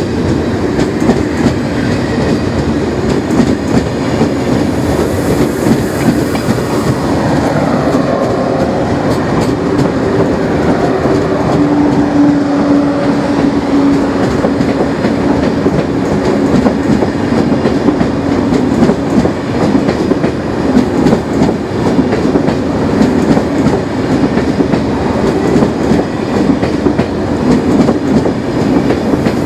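Thalys PBKA high-speed trainset in IZY livery rolling slowly past: a steady running noise of wheels on rail, full of fine clatter. A falling whine comes about seven seconds in, and a hum strengthens in the middle.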